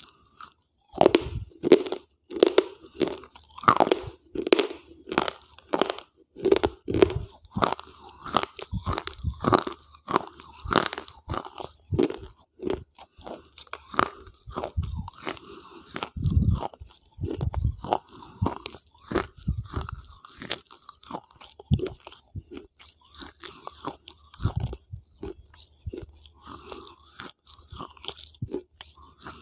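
Close-up crunching and chewing of hard, white, chalk-like pieces, heard through a lavalier microphone held at the mouth. The sharp crunches come steadily, about two a second.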